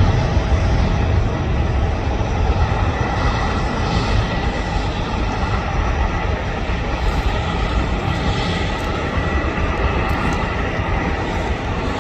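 Jet airliner engines running: a steady rumble with a thin, even whine on top, a little quieter after the first second.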